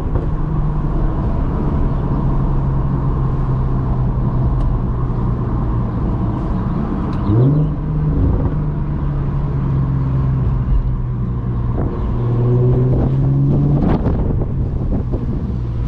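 Audi S4 B8.5's supercharged 3.0-litre V6 through a free-flowing exhaust (test pipes, resonated downpipes, touring cat-back), cruising at steady low revs. The revs rise quickly about seven seconds in, and the steady note drops away near the end.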